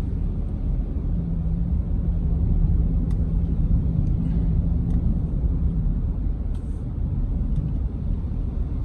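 Vehicle driving along a road, heard from inside the cabin: a steady low rumble of engine and tyres. A steady hum sits over it from about a second in until about six seconds in.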